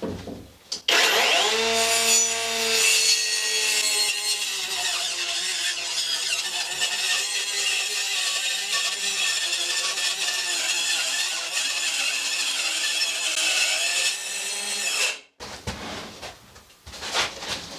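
A handheld power tool cutting into material for about fourteen seconds: its pitch drops as it bites in, then it holds a steady whine under load and stops abruptly. A few knocks follow near the end.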